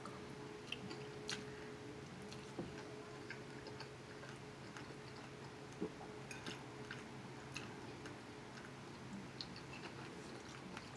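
Faint chewing of fried rice and lo mein, with soft irregular clicks, over a low steady hum.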